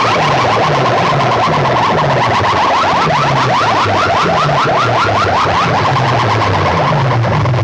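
DJ sound-box speaker stacks blasting a competition sound-effect track: a fast warbling, alarm-like tone sweeping several times a second over deep, repeatedly falling bass sweeps, very loud.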